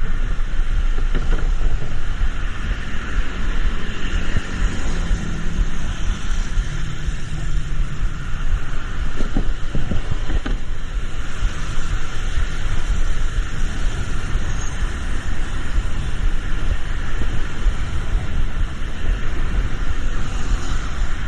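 Steady traffic noise in the rain: a low vehicle rumble under a constant hiss of tyres on wet road.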